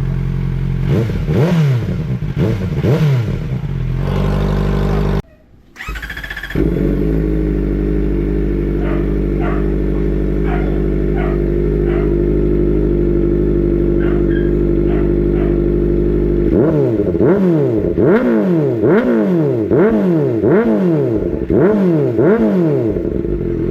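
Big motorcycle engine idling and being revved with throttle blips: a couple of blips near the start, a brief cut-out, steady idling, then about seven quick revs in a row near the end.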